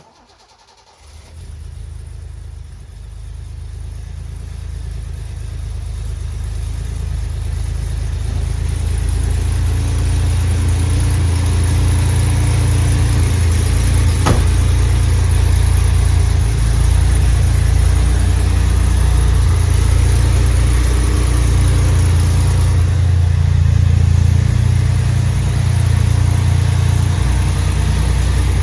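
1971 Datsun 240Z's 2.4-litre straight-six engine on a cold start: it catches about a second in and runs, getting louder over the first ten seconds or so, then holds a steady, loud running note.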